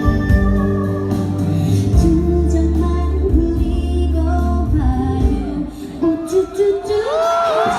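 Female singer performing live over musical accompaniment through a concert sound system, a strong sung line sliding in pitch near the end.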